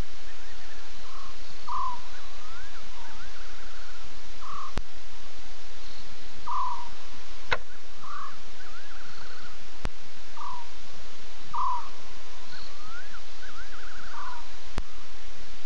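Repeated short bird calls: a brief falling note, then a rising whistle that breaks into a quick trill, the phrase coming back about every five seconds. Under them runs a steady hiss, with a few sharp clicks.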